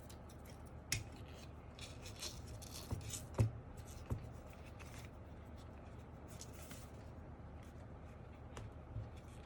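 Hands working on a mechanical keyboard during disassembly and foam modding: irregular small clicks, rustles and taps, the loudest a knock about three and a half seconds in.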